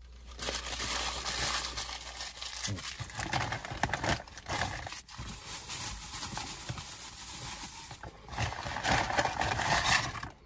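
A man chewing the last bite of a McDonald's double cheeseburger close to the microphone, with many short wet mouth clicks. Near the end there is a louder stretch of paper rustling.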